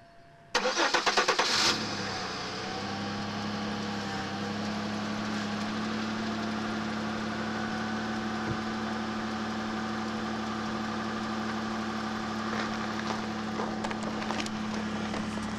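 2000 Chevy Malibu's 3.1-litre V6 cold start, heard from outside the car: the starter cranks for about a second, the engine catches quickly and settles into a steady idle.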